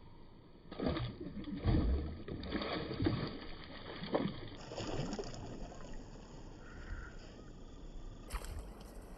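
Irregular bursts of water splashing for about four seconds, loudest near the start, as a hooked snakehead thrashes at the surface on a spinner lure; fainter water sounds follow, with a single knock near the end.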